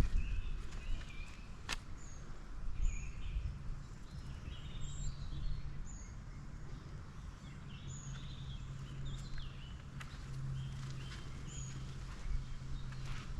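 Outdoor park ambience with small birds chirping and calling, including short high notes every second or two. A sharp click comes about two seconds in, and a low steady hum and rumble run underneath.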